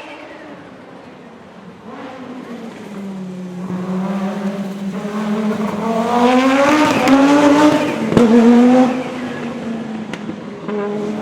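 Rally car's engine at speed, growing louder and higher as it approaches, loudest about six to nine seconds in, then dropping in pitch and level as it passes.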